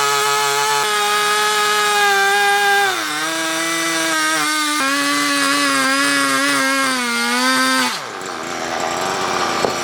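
Chainsaw running at full throttle; about three seconds in its pitch drops and wavers as the chain bites into the log under load, and near the end the engine note falls away.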